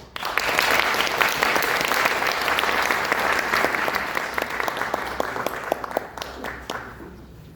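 Audience applauding: clapping breaks out all at once, holds steady for several seconds, then dies away near the end.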